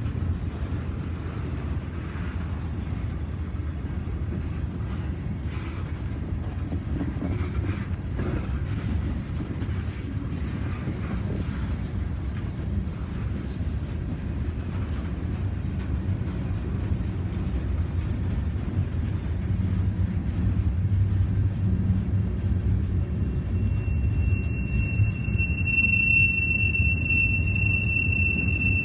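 Freight train rolling past with a steady low rumble. About 24 seconds in, a steady high-pitched steel wheel squeal begins and holds.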